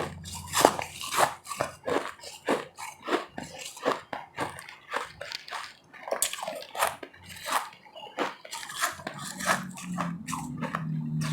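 Ice being bitten and chewed close to the microphone: a steady run of sharp crunches, about two a second. A low steady hum comes in near the end.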